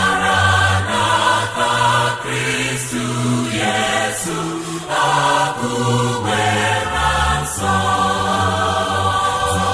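Music: a choir of voices singing held notes that change every half second or so, over a low bass line.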